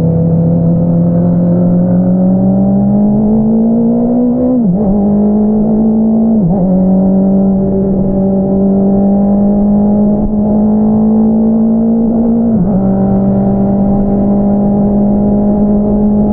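Honda CBR650R's inline-four engine through an Akrapovič single-outlet exhaust, pulling under load with the pitch climbing slowly. The pitch dips briefly three times as gears change.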